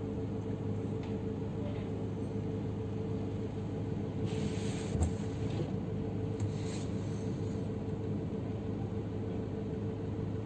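Car engine running, heard from inside the cabin as a steady low hum, with a couple of brief hissing noises and a single thump around the middle.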